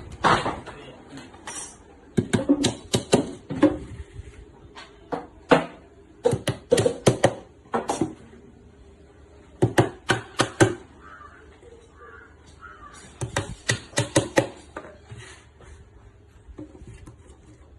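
Hammer driving nails into 10 mm plywood panels of a breeding box being assembled: bursts of quick, sharp strikes, about five a second, with short pauses between bursts.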